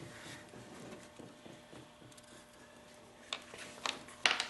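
A few light taps and clicks, three or four short sharp ones in the last second and a half, the loudest near the end.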